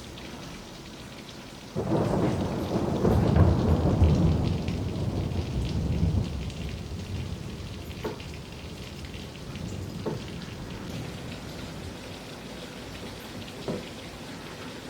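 Steady rain falling, with a roll of thunder that breaks in suddenly about two seconds in, is loudest a couple of seconds later and rumbles away over several seconds. A few louder drops tap now and then afterwards.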